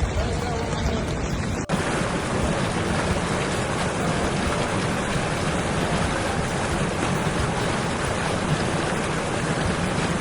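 Steady rush of water with wind buffeting the microphone. It cuts abruptly to a new shot about two seconds in, and the rush continues evenly after the cut.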